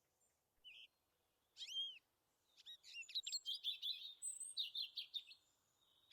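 Songbirds singing: a brief call, then a couple of whistled notes that rise and fall, then a quick run of high chirps and trills lasting a few seconds.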